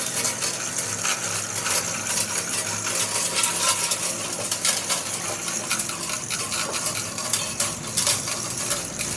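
Metal parts and tools clinking and clattering against each other, a dense, irregular run of sharp clinks.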